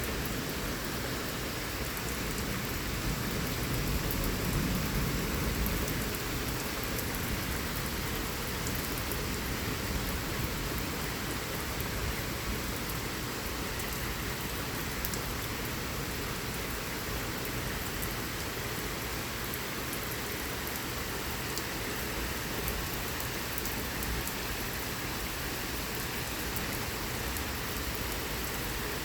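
Heavy thunderstorm rain falling steadily and pattering on surfaces, with a brief low rumble of thunder swelling about four seconds in.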